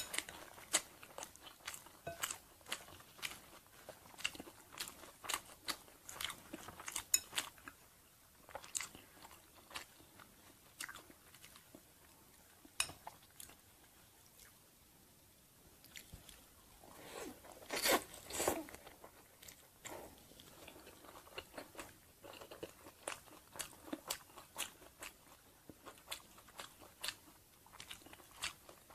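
Close-up chewing of crunchy lettuce and crispy banh chhev crepe: a run of small crisp crunches. There is a brief lull about halfway through, then the loudest burst of crunching.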